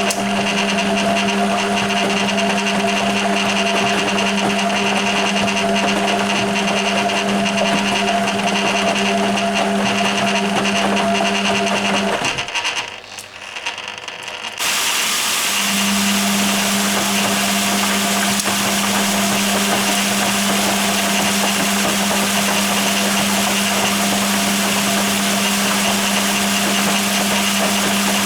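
Hoover Keymatic A3112 washing machine's drum motor running steadily during a rinse, with a strong low hum. About twelve seconds in it stops for two to three seconds, then starts up again and runs on, as the drum pauses between turns.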